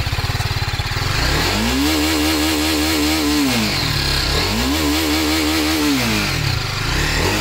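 TVS Apache RR 310's single-cylinder engine, heard at its stock exhaust silencer, idling and then revved twice. Each rev climbs, holds high for about two seconds and drops back to idle.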